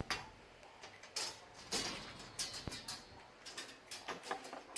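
Hands working with tools and glass: a run of irregular sharp clicks and short scrapes.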